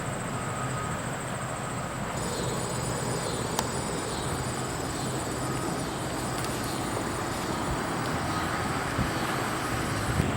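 Steady outdoor vehicle noise, like a car running or passing traffic, with a faint high-pitched whine over it.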